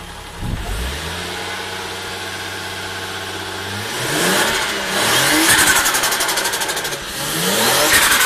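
Toyota 1JZ-GTE turbocharged straight-six idling steadily, then revved up twice. As the revs drop after each blip, the turbo flutters, a rapid chatter of compressor surge when the throttle closes.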